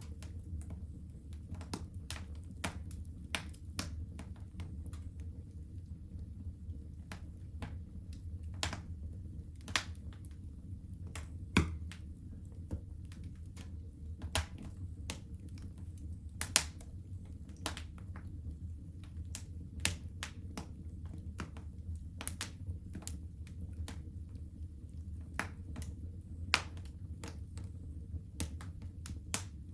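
Fire in a fireplace crackling, with irregular sharp pops and snaps, a few of them louder, over a steady low rumble.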